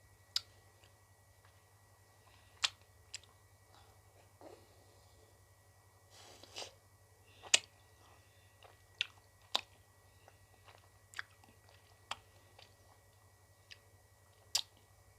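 Close-miked eating of ice cream: about a dozen sharp, separate wet clicks and smacks of lips and mouth, the loudest about halfway through, with a brief rustle just before it.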